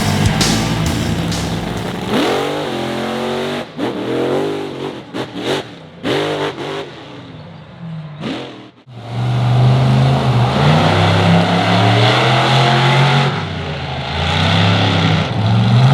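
Monster truck engine revving in a series of quick, separate blips, then running loud and steady at high revs, its pitch wavering. The tail of a music track fades out at the start.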